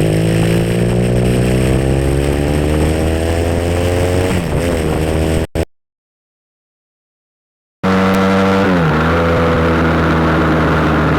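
SBM 400 motorcycle engine under way, its pitch climbing steadily for about four seconds, then dipping briefly. The sound then cuts out completely for about two seconds and comes back with the engine running, falling in pitch, then holding steady.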